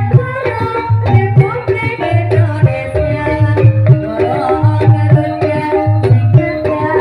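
Banyumasan ebeg gending music: a gamelan-style ensemble plays a running melody over repeated low hand-drum strokes.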